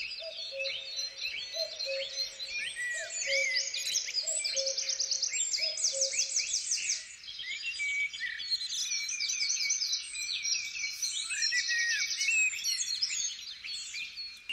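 A dense chorus of many songbirds singing at once: overlapping chirps, rapid trills and whistled notes. Through the first half, a lower two-note call repeats about every second and then stops.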